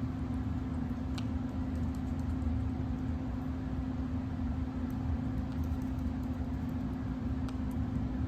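Steady low mechanical hum holding one pitch, with a faint tick now and then.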